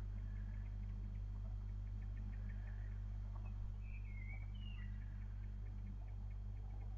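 Steady low electrical hum from the webcam's audio feed, with a few faint, high, gliding chirps about halfway through.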